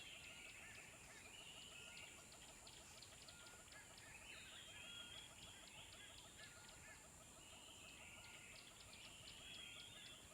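Faint birdsong from a nature-sounds background track: many short chirps and trills from several birds.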